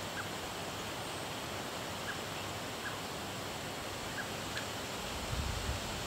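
Faint, short bird calls, single chirps every second or so, over a steady outdoor hiss. A low rumble comes in near the end.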